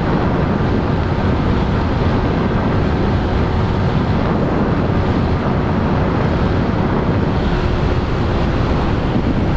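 Strong wind rush over the microphone at high speed, with the Yamaha R15 v3's single-cylinder engine running steadily underneath, held near the bike's top speed of about 137 km/h.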